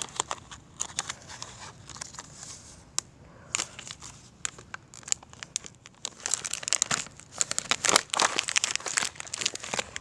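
A DVD cover being crumpled by hand: irregular crackling and crinkling, sparse at first and busiest in the second half.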